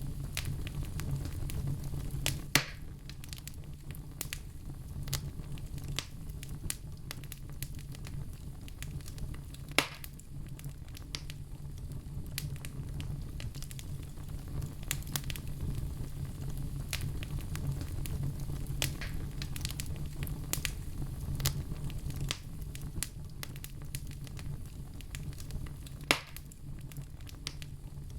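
Fire burning in a fireplace stove, crackling steadily with scattered small snaps over a low rumble, and three sharper pops.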